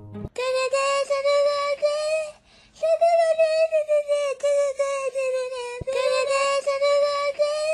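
A high singing voice holding one long note, broken into three stretches with a short gap after about two seconds and another near six seconds; the pitch wavers slightly.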